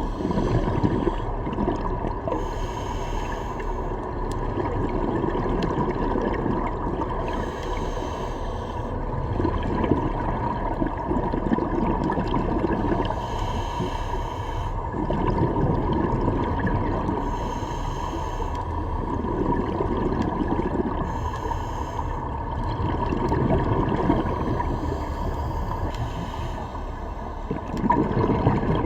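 Underwater sound of a scuba diver breathing through a regulator: a rush of exhaled bubbles every four or five seconds between quieter breaths, over a steady faint hum.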